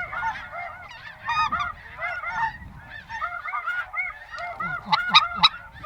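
A chorus of snow goose calls: many short, high honks overlapping without a break, with a louder cluster about five seconds in.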